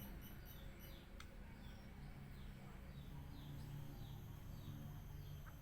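Faint bird chirps: short, falling notes repeated about twice a second, over a low steady hum.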